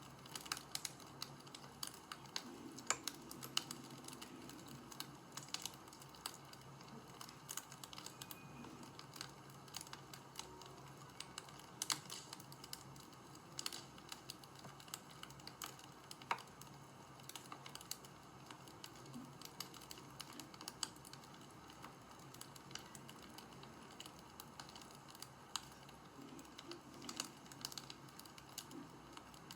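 Wood fire crackling: sparse, irregular sharp pops and snaps over a steady low hiss.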